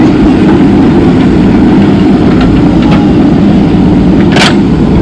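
JCB 3DX backhoe loader's diesel engine running steadily as the machine works soil, with a brief sharp noise about four and a half seconds in.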